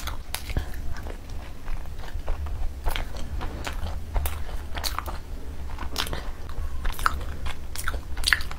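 Close-up eating sounds: biting and chewing naan bread soaked in curry gravy, as many irregular short mouth clicks over a steady low hum.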